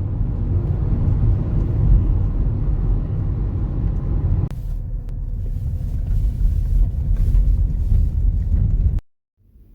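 Strong wind buffeting the microphone: a loud, steady low rumble that changes character abruptly about four and a half seconds in and cuts off near the end.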